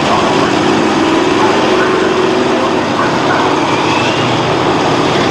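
Monster truck engines running steadily as the trucks pull out, a loud continuous engine drone under a dense wash of noise.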